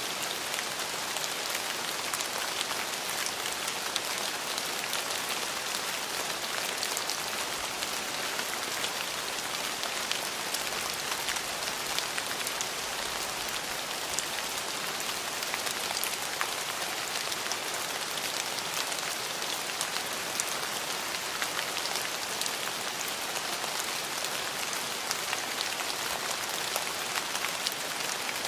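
Steady rain falling, a constant hiss scattered with the sharp ticks of single drops hitting close by.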